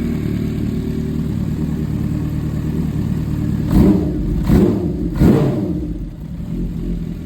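Kawasaki Ninja H2's supercharged inline-four idling through an Akrapovič titanium header and SC-Project muffler. About four seconds in it is blipped three times in quick succession, with short revs about 0.7 s apart, and then it drops back to idle.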